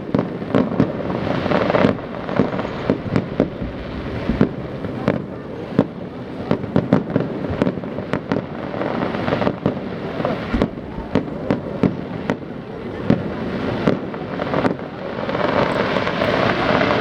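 Fireworks going off in quick succession: a dense run of sharp bangs and cracks, several a second, over a steady background rumble that grows louder near the end.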